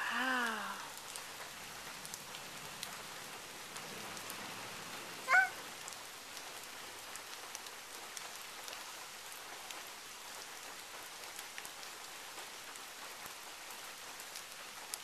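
Steady rain falling on pavement and grass, an even hiss with scattered drip ticks. A short falling voice sound comes at the very start and another brief one about five seconds in.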